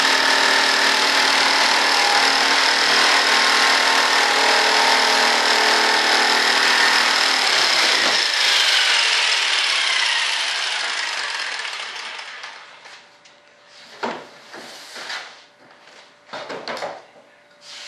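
Power saw cutting, its motor running steadily, then switched off about eight seconds in and winding down with falling pitch. A few short knocks and handling sounds follow near the end.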